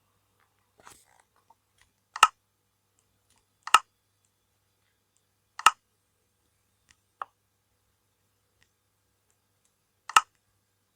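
Four sharp clicks spaced a few seconds apart, each a quick double click with a soft click just before the loud one, and a fainter single click between the third and fourth.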